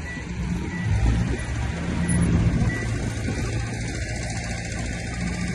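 Diesel engine of heavy earthmoving machinery running at work, a steady low drone with rough mechanical noise over it. Faint short high beeps repeat a little under once a second during the first three seconds.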